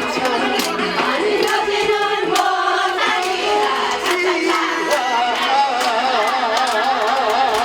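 Trot song sung live over a backing track with a steady beat; the held notes near the end carry a wide, wavering vibrato.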